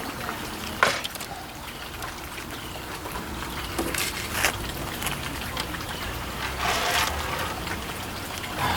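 Scattered clicks, taps and a brief rustle of small parts and screws being handled while a Macintosh Plus is put back together.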